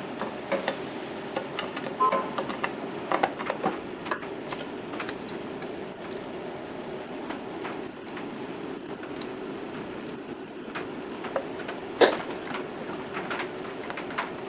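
A steady mechanical hum with scattered light clicks and knocks of parts being handled, and one sharp, louder knock about twelve seconds in.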